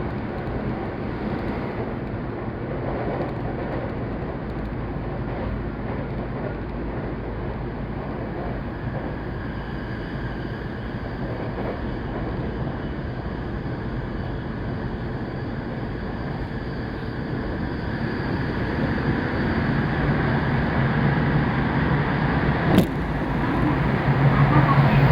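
Running noise of a commuter train heard from inside the passenger car: a steady rumble of wheels on rails that grows louder over the last few seconds as a low hum rises, with one sharp click shortly before the end.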